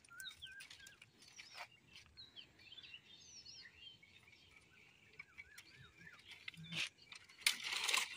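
Small birds chirping and calling, many short notes that quickly rise and fall in pitch. There are a few sharp clicks, and a brief rustle near the end.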